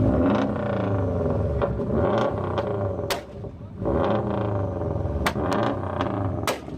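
Car engines revving up and down, with sharp exhaust pops: one crack about three seconds in and a quick run of several more near the end.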